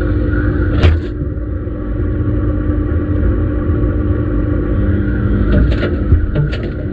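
Washing machine running its wash cycle: a steady motor hum as the drum turns the wet laundry. A sharp knock comes about a second in, and a few more come near the end.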